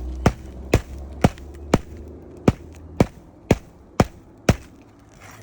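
Hammer driving a roofing nail by hand into a 3-tab asphalt shingle: nine sharp strikes about two a second, stopping shortly before the end.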